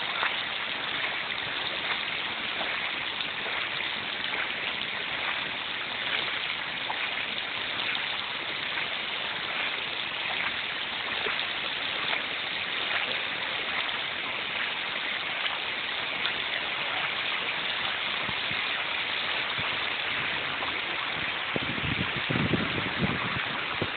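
Floodwater rushing steadily across a road where a river has burst its banks. Some uneven low rumbling joins near the end.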